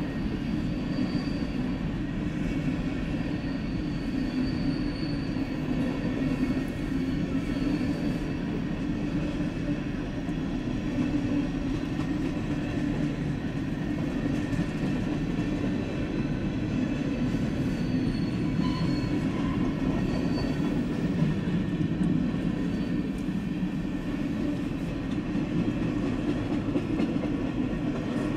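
Freight cars of a long freight train, covered hoppers and then autorack cars, rolling steadily past a grade crossing: an even rumble of steel wheels on rail, with a faint high wheel squeal now and then.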